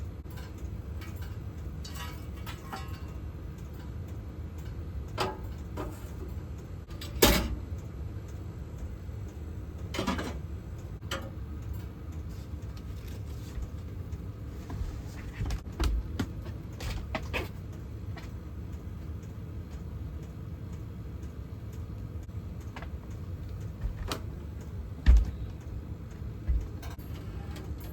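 Scattered knocks and clicks of things being handled, over a low steady hum. Two sharp, louder knocks stand out, one about seven seconds in and one near the end.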